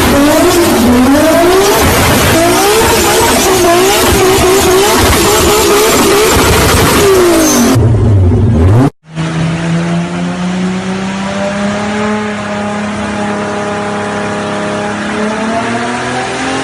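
Toyota Supra MK4's turbocharged 2JZ straight-six revving hard, its pitch swinging rapidly up and down over loud, hissing tyre noise. After a sudden cut about nine seconds in, the engine pulls steadily, its pitch slowly climbing.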